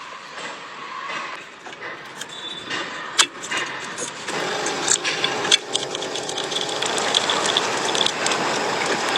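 Several sharp mechanical clicks, then from about four seconds in a steady mechanical running sound, like a car engine, that grows slightly louder.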